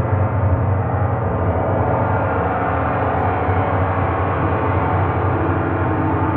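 Gong resonating in a sustained wash of many overlapping tones, played continuously so the sound holds at an even level.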